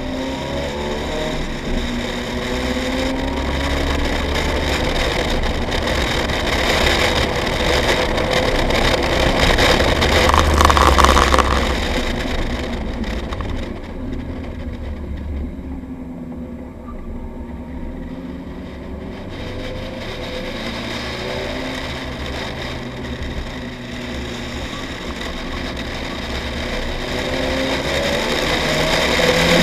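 Nissan 180SX engine heard from inside the cabin at speed on a track, pulling harder with rising pitch to a peak about eleven seconds in, falling away a couple of seconds later, then building again near the end.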